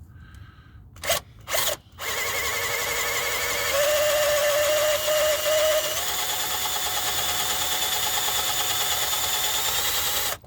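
Power drill running under load as its Spyder Stinger Mach Blue armor-plated bit bores into a broken hardened-steel frame bolt: a steady motor whine that starts about two seconds in, steps up slightly in pitch twice, and cuts off suddenly near the end. A couple of short clicks come before it starts.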